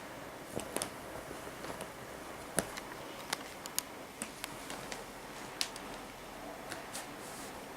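Paper bag crackling and crinkling in short irregular snaps as a kitten plays in and around it, over a steady faint hiss.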